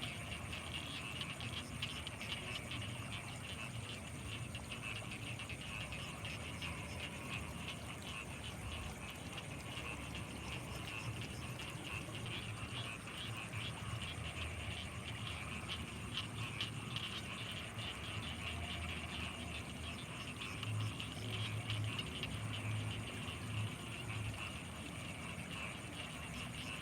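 Night chorus of frogs and insects: a dense, rapid trilling mixed with a steady high-pitched whine, with a few low throbbing pulses about three-quarters of the way through.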